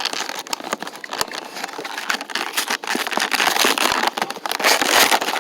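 Toy packaging being opened by hand: plastic and cardboard crinkling and crackling with many sharp clicks and snaps, loudest near the end.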